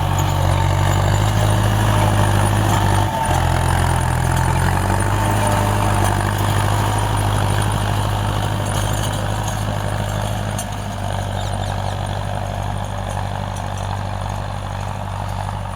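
Tractor's diesel engine running steadily with a low, even drone, loudest for the first few seconds and easing off slightly afterwards.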